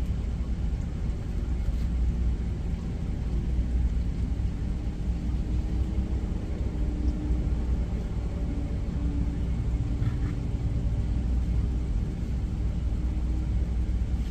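Steady low engine rumble heard inside a truck cab, with a faint steady hum through the middle.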